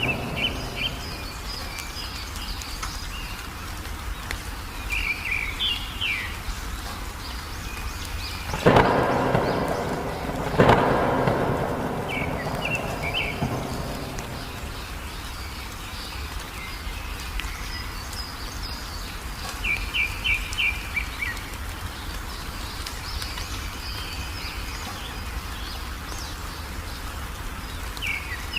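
Small songbird chirping in short bursts of quick repeated notes over steady rain. Two sharp thunderclaps come about two seconds apart near the middle, each rumbling away over a few seconds and louder than everything else.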